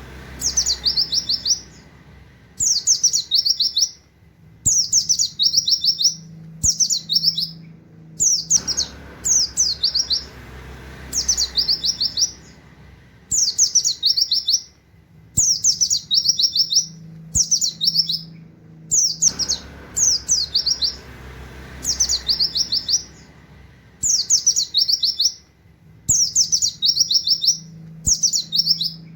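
A pleci (white-eye) singing in short, rapid bursts of high, quick falling notes, a canary-like song repeated about every two seconds with brief pauses.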